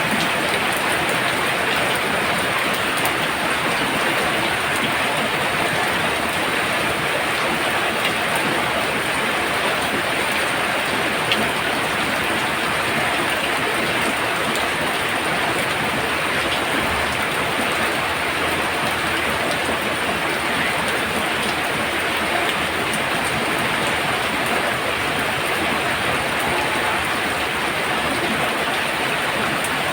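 Heavy rain falling steadily, with one brief tick about eleven seconds in.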